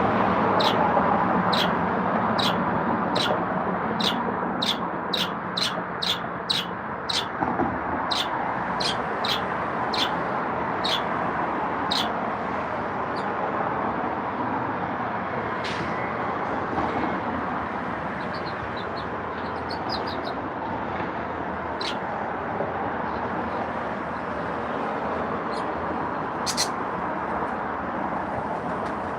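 Short, sharp bird chirps repeated about twice a second for the first twelve seconds, then only now and then, over a steady even background noise.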